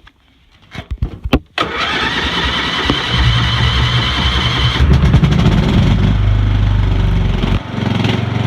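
Wheel Horse 211-5 garden tractor's single-cylinder Kohler engine being cranked over and catching, then running fast and steady. A few clicks come before the cranking starts, and near the end the engine drops to a lower speed.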